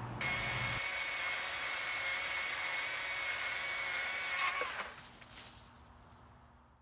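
Battery-powered STIHL MSA 140 C-B chainsaw running at steady full speed with a constant high whine. About four and a half seconds in, its pitch drops and it winds down to stop.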